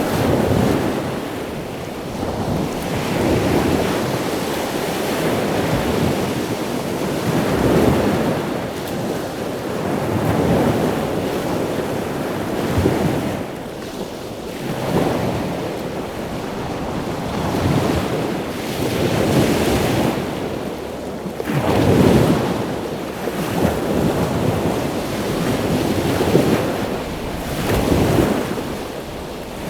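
Ocean surf breaking on a beach, with wind buffeting the microphone. The rush of the waves swells and falls back every few seconds.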